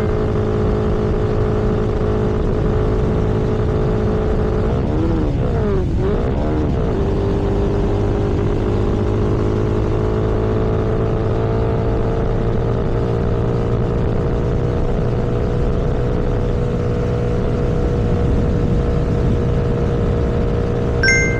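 Vehicle engine running steadily at cruising speed, heard from on board, with a brief waver in the engine note about six seconds in. A short high beep sounds near the end.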